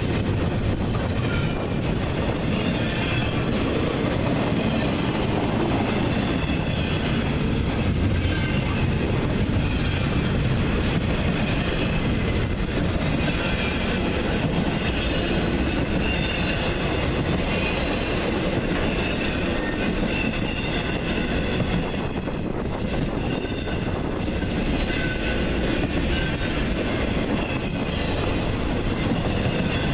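Train cars rolling past on the tracks: a steady rumble and clatter of wheels, with faint high-pitched wheel squeals coming and going.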